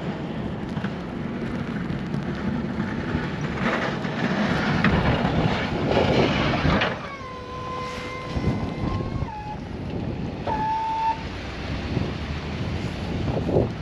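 Strong blizzard wind rushing over the microphone, with a vehicle running underneath. About seven seconds in the rushing eases and a steady whistling tone sounds for about two seconds, dips in pitch, and a shorter tone follows a second later.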